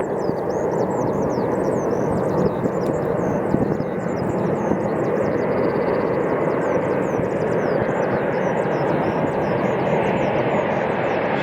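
Steady roar of a large airplane's engines, with many short high chirps sounding over it.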